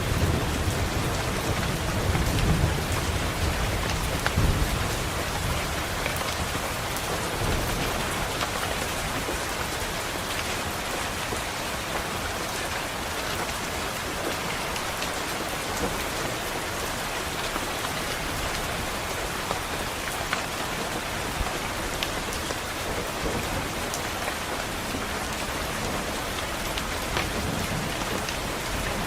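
Steady rain falling, with a low rumble of thunder over the first few seconds that dies away.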